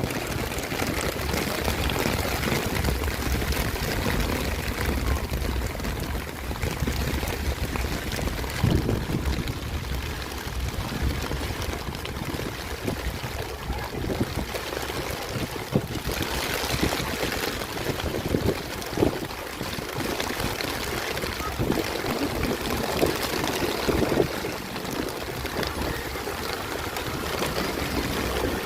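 Heavy rain falling steadily, a continuous rushing hiss with a low rumble underneath.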